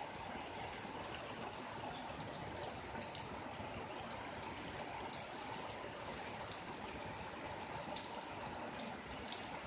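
Steady rain with water running and trickling, a continuous wash of water noise dotted with small drip sounds.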